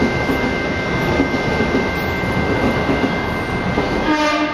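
Electric commuter train running past a station platform: a steady rush of wheel and running noise with a constant high whine. About four seconds in, a chord of several steady tones comes in.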